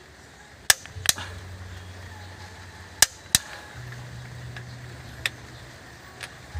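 Six sharp, short knocks or clicks at uneven intervals, the loudest two coming about a second in and about three seconds in, over a low steady hum.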